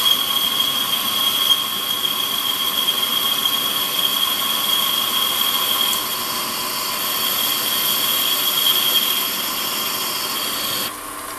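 Warco metal lathe running a fine boring cut, with a steady high-pitched whine over the machine's running noise. Near the end the whine stops and a quieter running sound remains as the cut finishes.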